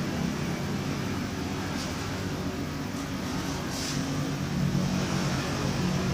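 A motor running with a steady drone, with brief hissing bursts about two and four seconds in.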